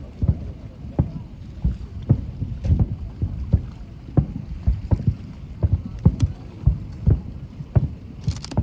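Aerial fireworks shells bursting: an irregular run of low booms, about one or two a second, with a short crackle near the end.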